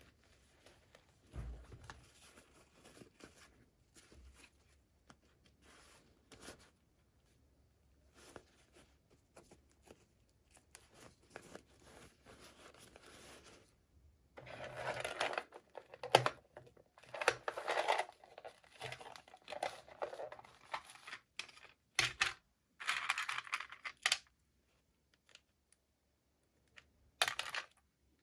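Toy doll packaging being torn open and crinkled by hand, in irregular scratchy bursts with a few sharp clicks, louder from about halfway through.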